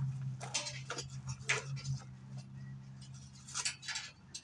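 Scattered clicks, taps and scrapes of hands working loose the top of a motorcycle shipping crate, over a low steady hum that fades after about two seconds.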